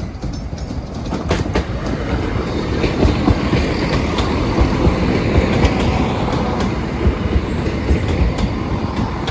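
Train passing close by at speed: a steady rumble of wheels on the rails, building about a second in, with sharp clicks as the wheels run over rail joints.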